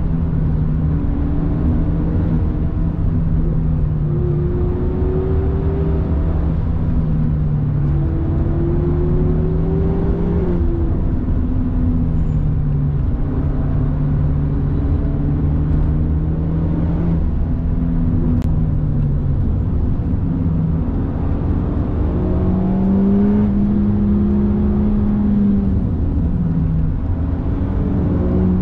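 Honda Civic Type R FK8's turbocharged 2.0-litre four-cylinder heard from inside the cabin at speed, its note climbing and then stepping down several times as it is driven hard through throttle and gear changes, over heavy tyre and road rumble.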